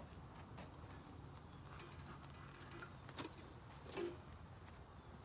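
Honeybees buzzing around an opened hive as a faint, steady low hum, with two sharp knocks about three and four seconds in and short high chirps every second or so.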